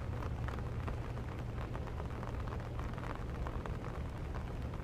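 Rain pattering steadily on an open umbrella held close to the microphone: many small drop ticks over a constant low rumble.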